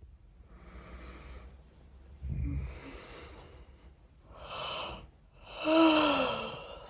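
A person waking up: breathy inhales and exhales, a dull thump about two seconds in, then a long voiced sigh that falls in pitch near the end.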